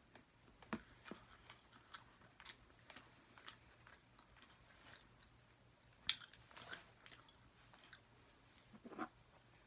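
Faint, close-up chewing and wet mouth clicks while eating, with a couple of louder bites or smacks about six and nine seconds in.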